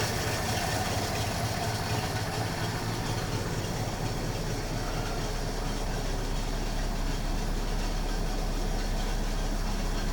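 1956 Oldsmobile Rocket V8 idling steadily with the air cleaner removed.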